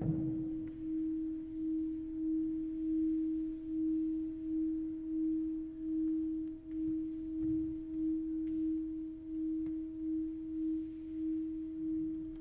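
A single steady pure tone, held throughout with a faint higher overtone, pulsing gently in loudness about twice a second. A short soft thump sounds right at the start.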